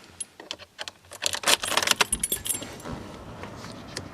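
Car keys jangling on their ring, with a run of clicks and rattles about a second in.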